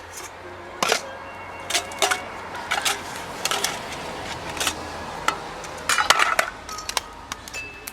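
Popcorn popping in a metal pan over a wood fire: irregular sharp pops, some ringing briefly off the metal, about two a second and bunching up around six seconds in.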